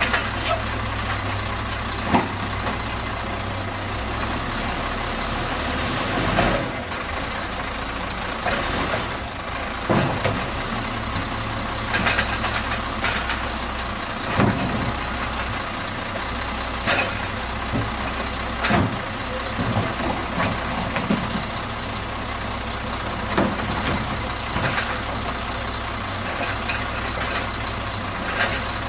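McNeilus Autoreach automated side-loader garbage truck at work: its diesel engine runs steadily, broken by a series of short, sharp bangs and hisses as it collects.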